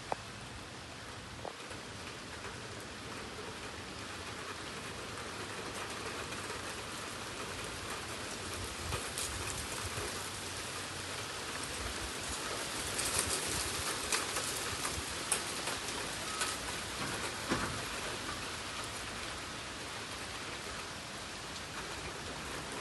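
Steady rain falling, with scattered louder drop taps that come more often about halfway through.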